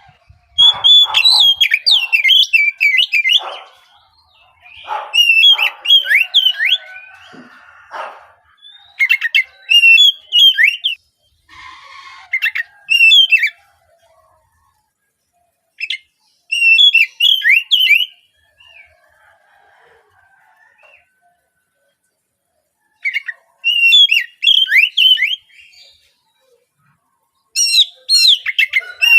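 Young, spotted-plumage Oriental magpie-robin (kacer trotol) singing in about seven bouts of rapid chirps and whistled notes, with short silent pauses between bouts.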